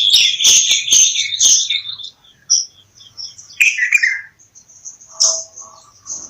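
Bulbuls chirping, many short calls overlapping, with a few sharp clicks in the first second and a half. The calls thin out around two seconds in, then pick up again.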